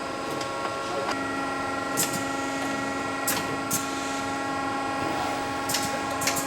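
INDEX MS40C multispindle CNC lathe running: a steady machine whine made of several fixed tones, with another tone joining about a second in. Short sharp hissing bursts cut in about five times.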